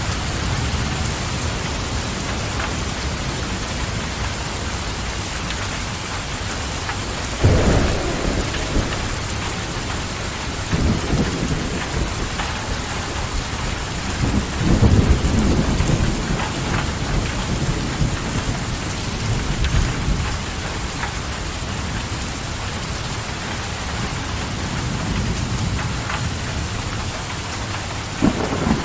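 Steady rain falling, with several low rolls of thunder rising over it; the loudest roll comes about halfway through.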